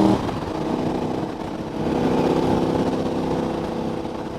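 KTM 1290 Super Adventure's V-twin engine running on the road with wind rush; the engine note drops away as the throttle eases at the start, then picks up again about two seconds in.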